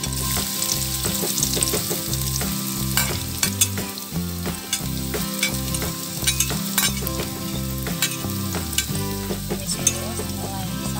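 Sliced shallots and garlic sizzling in a little hot oil in a wok, with a steady hiss and frequent small crackles and pops.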